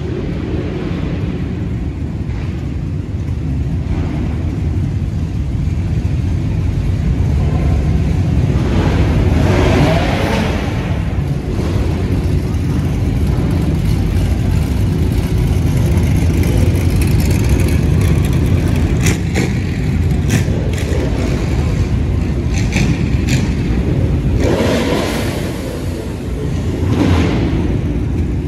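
Vehicle engines running and revving as a steady, loud low rumble that swells about ten seconds in and again near the end, with a few sharp clicks in between.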